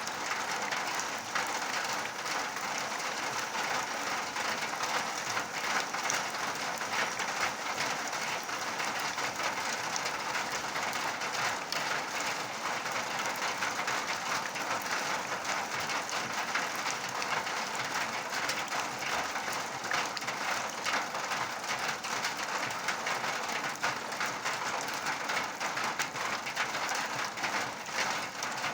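Steady rain falling, a dense patter of many drops without a break.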